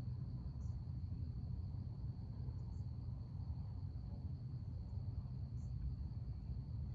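Crickets trilling in a steady, unbroken high chorus over a constant low rumble of background noise.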